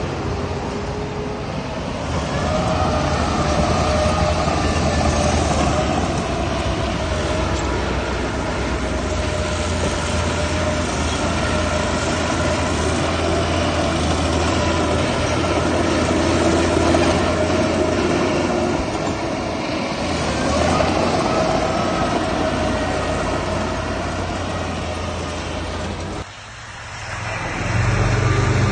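Heavy diesel earthmoving machinery working, with a steady low engine drone and higher squealing, metallic tones over it. The sound drops sharply about 26 seconds in and comes back louder, with a different engine note.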